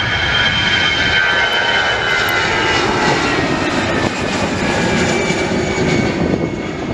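Jet airliner's engines at takeoff power: a loud, steady roar with a high whine that slides slowly down in pitch as the plane goes past.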